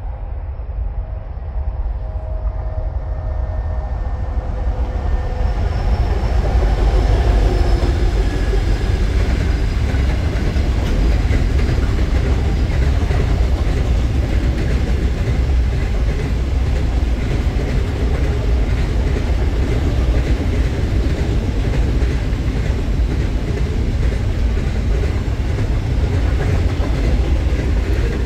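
Diesel-hauled container freight train, led by an NSW 81 class and an 82 class diesel-electric locomotive, approaching and passing, growing louder over the first six seconds or so. Then the long line of empty container wagons rolls by with a steady heavy rumble and the clatter of wheels on the rails.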